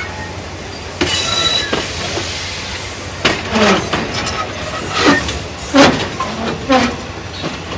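Passenger train carriages rolling slowly along the track, with a steady low rumble of wheels on rail and a brief high wheel squeal about a second in. From about three seconds in there are several short, loud voice-like cries.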